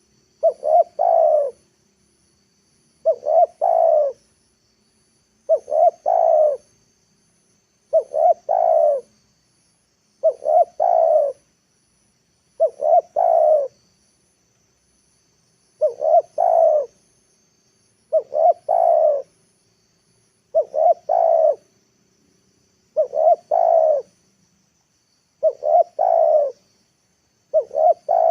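Spotted dove (tekukur) calling over and over: a short phrase of quick notes and coos repeated evenly about every two and a half seconds. It is a lure dove calling to draw wild doves down to the ground.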